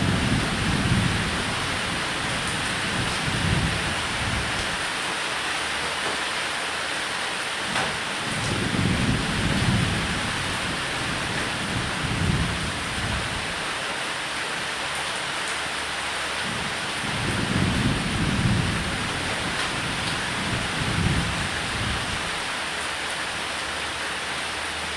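Steady heavy rain on a roof, with three long low rolls of thunder: one at the start, one about a third of the way through and one about two-thirds of the way through.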